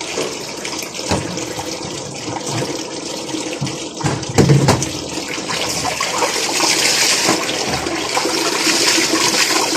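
Water swirling and sloshing in a washing machine tub during a test run, with a rushing hiss that grows louder from about six seconds in.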